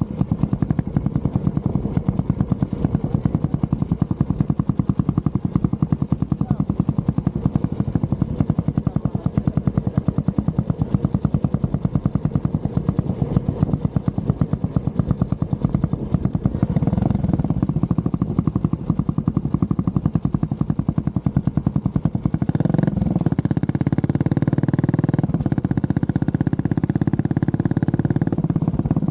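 Honda CB400SS single-cylinder engine running while riding, a rapid even pulse of firing strokes. About 22 seconds in the note changes to a smoother, steadier tone.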